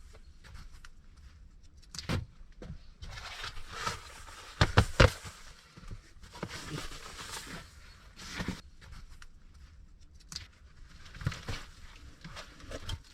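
Irregular knocks and rustling, as of objects being handled, with a cluster of several loud knocks about five seconds in.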